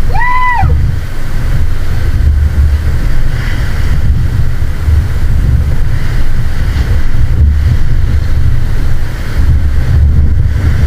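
Wind buffeting the microphone in gusts over the wash of breaking surf. Right at the start, a short whistle-like call rises and falls once.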